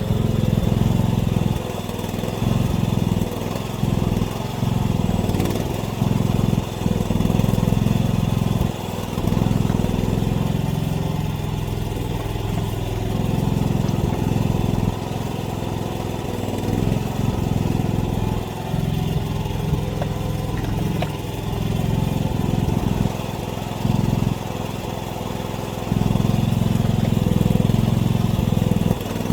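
Mini excavator's engine running, its loudness rising and falling every few seconds as the machine works.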